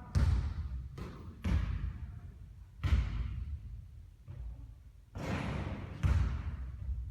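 Basketball bouncing on a court: about five heavy thuds at uneven intervals, with a softer rushing noise between some of them.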